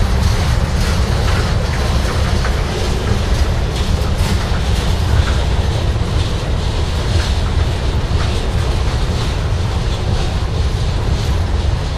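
CSX freight train rolling past close by: a steady, loud rumble of the cars with irregular clicks of wheels passing over the rails.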